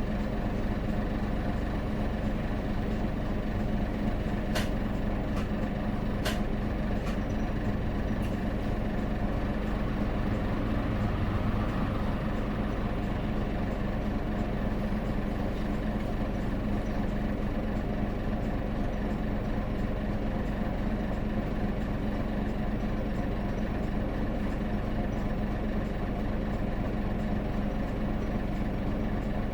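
Hino Blue Ribbon City city bus's diesel engine idling steadily, heard from inside the bus, with a few sharp clicks about four to eight seconds in.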